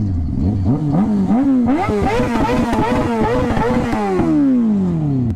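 Motorcycle engine revved in a string of quick rising-and-falling surges, then winding down in one long falling pitch toward idle near the end.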